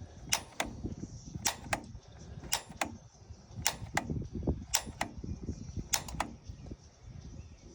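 Piezo igniter button on a Honeywell gas control valve being pressed over and over to light a water heater's pilot: sharp clicks in pairs, about one pair a second, six times, with no pilot lit yet.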